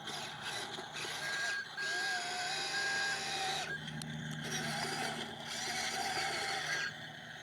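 Small electric motors and gearboxes of RC construction vehicles whining, the pitch gliding up and holding and then changing again, with a high beep that sounds on and off.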